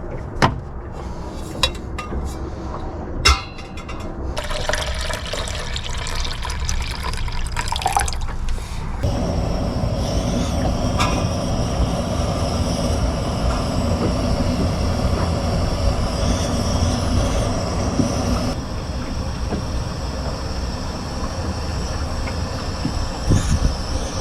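A few sharp clicks and handling knocks, then water poured into a pot. About nine seconds in, a portable camp stove burner catches and runs with a steady hiss as it heats water toward a boil.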